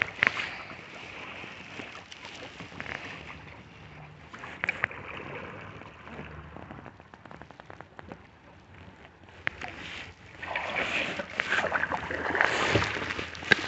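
Water sloshing and splashing around a kayak, with scattered knocks and clicks of the paddle and hull. The splashing grows louder and busier near the end.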